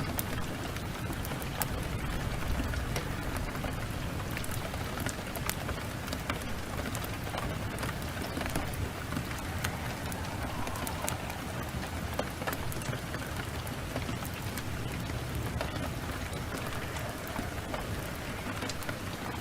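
Steady downpour of rain with a wood fire crackling, sharp pops scattered throughout.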